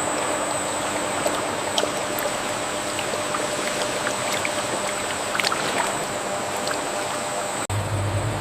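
Steady factory machinery noise: an even rushing hiss with a thin high whine and scattered light clicks. Near the end it cuts abruptly to a deeper machine hum.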